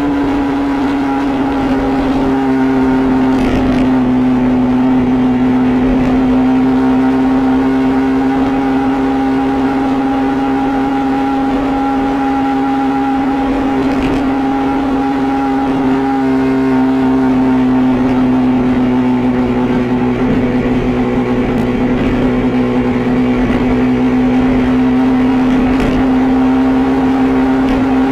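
Yamaha R15 V3's 155 cc single-cylinder engine running at a steady speed through its stock exhaust, giving a loud, steady tone that barely changes in pitch. The owner finds the stock exhaust's sound has turned strange and doesn't know why.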